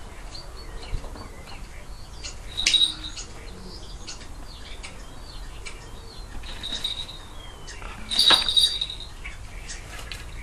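A few short, high-pitched bird chirps, the loudest near the end, over light rustling and clicks.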